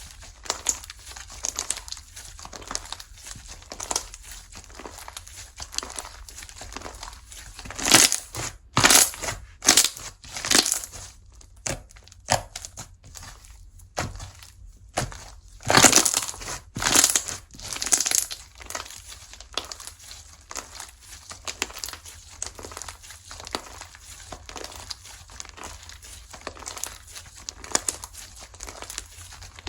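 Slime being squeezed, stretched and pressed by hand, giving many small sticky clicks and crackling pops. Two louder spells of pressing come about a third of the way in and again just past halfway.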